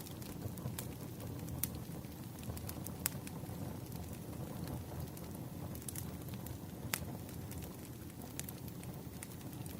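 Wood fire crackling over a steady low rumble, with scattered sharp pops, the clearest about three and seven seconds in.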